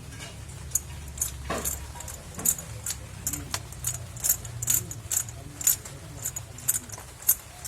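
Small metal objects clinking and jingling, several light irregular clicks a second, over a steady low hum.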